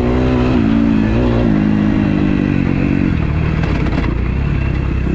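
Freshly rebuilt 2012 Kawasaki KX250F four-stroke single-cylinder motocross engine running under throttle while being ridden, its pitch stepping up and down. About three seconds in it drops to a rougher, lower, uneven note.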